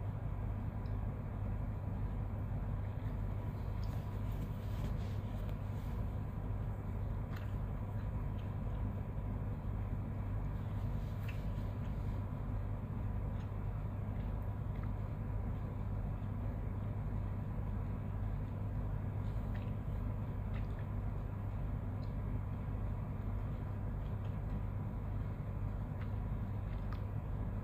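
Honda 250 outboard motor running steadily, a constant low hum with no change in speed.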